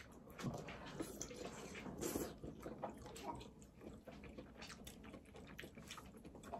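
Faint chewing of spicy tteokbokki rice cakes: a run of small, irregular wet mouth clicks and squishes.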